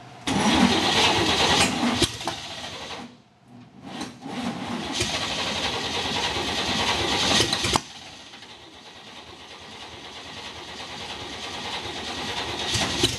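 Chevrolet 235 straight-six engine being cranked on the starter after a shot of ether, in two long attempts with a short break at about three seconds. The cranking cuts off abruptly near the eight-second mark, and a quieter steady sound follows. The engine is close to firing but does not catch.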